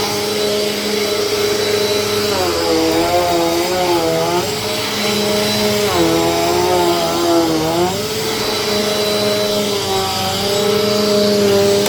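Vacuum cleaner running with a steady motor whine and rushing air. About two seconds in, and again about six seconds in, the whine drops in pitch and wavers for a couple of seconds, then settles back.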